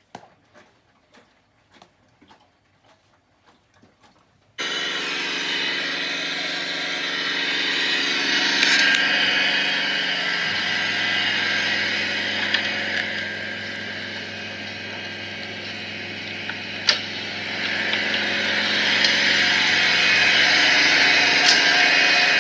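Faint drips and ticks, then a Bosch WAN28281GB washing machine's motor and drum start running fast, a steady whine with a high hiss. The machine is at spin speed, the sound rising and falling a little, with a deeper hum joining about halfway through.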